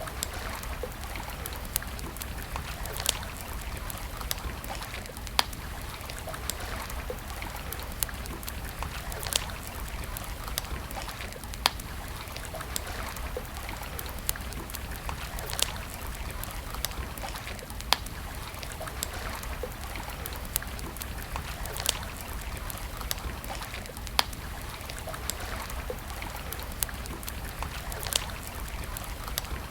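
Wood campfire burning with a steady hiss and low rumble, broken by sharp single crackles and pops every second or few.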